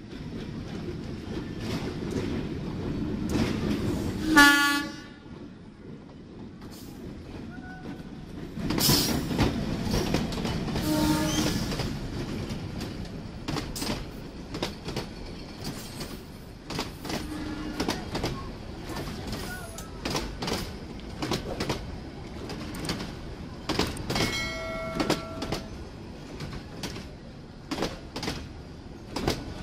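A Bangladesh Railway diesel commuter train passing close by. The locomotive's rumble builds and its horn gives one short, loud blast about four seconds in. The locomotive then rumbles past, and a long line of coaches follows, their wheels clacking over the rail joints.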